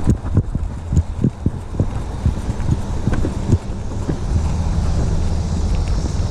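Wind buffeting the microphone during a ride, with a steady low rumble and irregular low knocks and rattles from jolts over rough ground.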